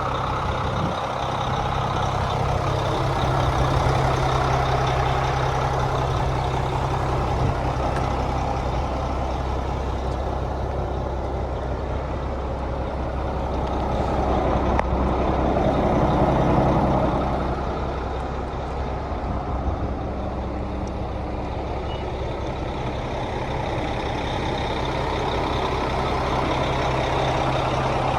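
Cummins M11 diesel engine of a 1996 International 8100 truck idling steadily, growing slightly louder around sixteen seconds in.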